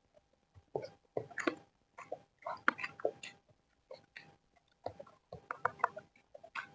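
Close-up eating sounds: irregular wet chewing and lip smacks from someone eating a mouthful of fried rice.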